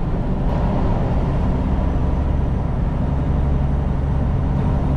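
Semi-truck's diesel engine running with a steady low drone and road noise, heard from inside the cab while driving.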